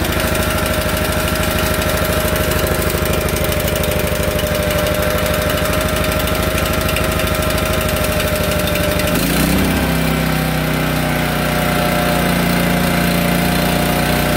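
A Honda GX160 single-cylinder four-stroke engine on a portable generator, running just after a cold start following six years of storage. About nine seconds in, its note changes abruptly and it settles into a smoother, slightly higher-pitched run.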